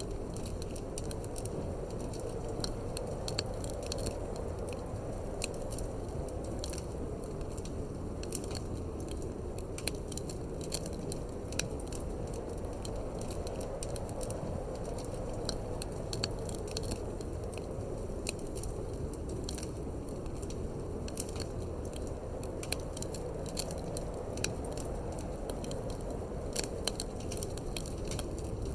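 Wood fire in a fireplace crackling, with many small irregular snaps and pops over a steady low rushing background.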